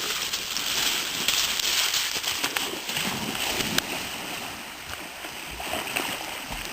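Creek water sloshing and splashing as dogs wade and swim through it, over the creek's steady rush.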